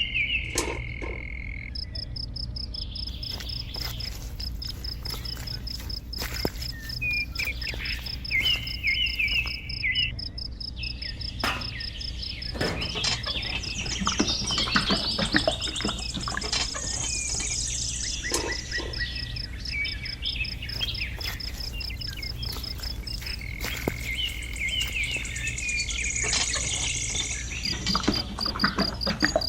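Outdoor nature sounds: a steady, high, pulsing insect trill with short chirping animal calls over it. Scattered clicks and taps, and a steady low hum underneath.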